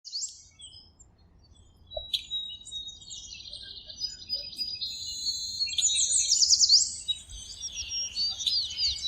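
Songbird singing: a short call, a brief lull, then a long run of fast high trills and chirps with quick sweeping whistled notes, loudest a little past the middle.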